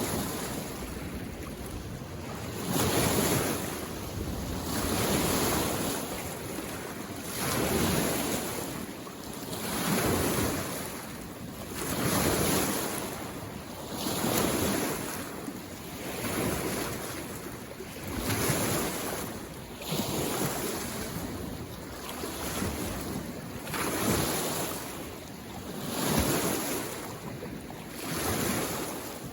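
Small waves on a mountain lake washing in against the shore in a steady rhythm, one swell of surf about every two seconds.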